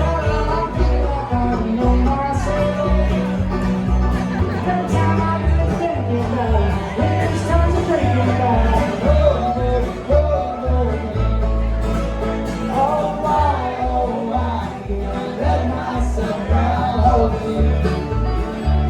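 Bluegrass band playing, with banjo and guitar over a steady bass line and a singing voice.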